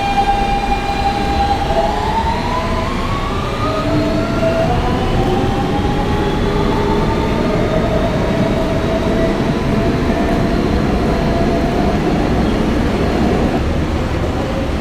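Siemens traction motors of an R160B subway train whining as it pulls out, several tones climbing in pitch over the first few seconds and then levelling off, over the steady rumble of the wheels on the rails.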